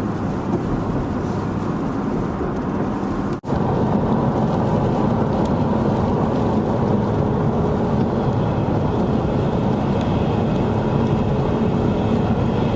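Car driving along, with a steady rumble of engine and road noise. The sound drops out for an instant about three and a half seconds in, then the rumble carries on, with a faint steady whine joining it later.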